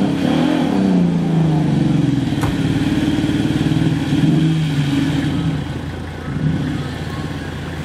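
Suzuki Vitara 4x4's engine revving up and down under load as it pushes through deep mud. A single sharp knock sounds about two and a half seconds in.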